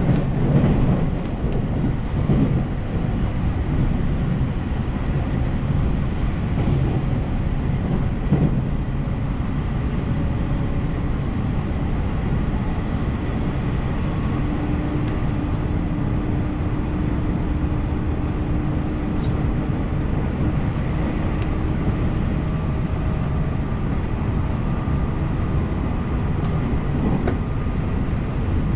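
JR Central 313 series electric train running at speed: a steady rumble of wheels on the rails, with a few sharp knocks in the first seconds and a faint steady whine through the middle.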